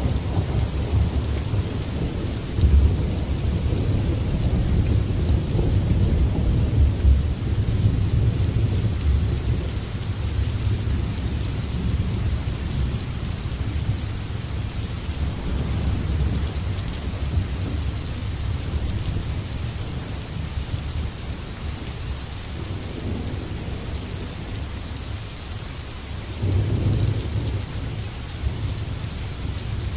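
Heavy rain falling steadily, a constant hiss, under low rolling thunder. The rumble is strongest in the first several seconds and swells again briefly near the end.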